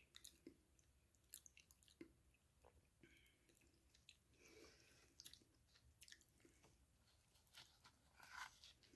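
Chewing crunchy food close to the microphone: irregular crisp crunches and bites, the sharpest about a second and a half in.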